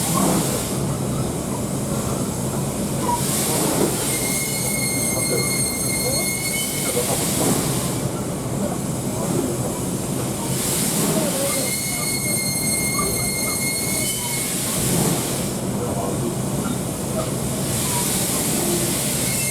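Steam locomotive C57-1 working slowly with a high-pitched metallic squeal from its cylinder, in long squeals of two to three seconds that come back every few seconds, alternating with hissing bursts of steam. The abnormal noise appears to come from a broken sealing part in the left cylinder.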